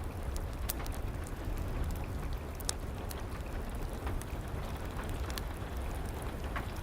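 Steady rain, with sharp pops every second or so from a crackling wood fire in a fireplace.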